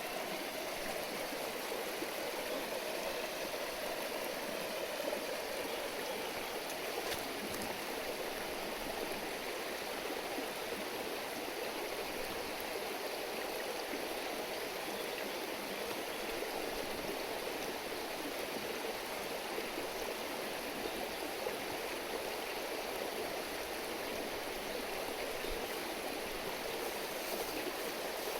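Shallow river babbling and rushing steadily, an even, unbroken water sound.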